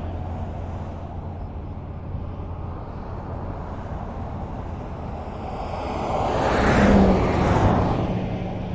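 Highway traffic: a steady low rumble of road noise, with one vehicle passing close by, growing louder from about two-thirds of the way in, loudest shortly after, then fading.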